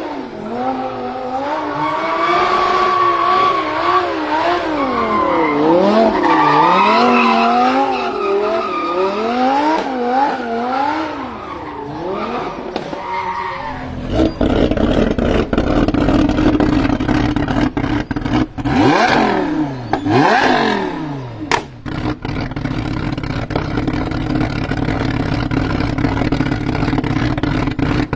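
A Lamborghini Huracan drift car's engine revving hard, its pitch swinging rapidly up and down, with tyre squeal. About halfway through it gives way to a steadier engine note broken by two quick, sharp revs.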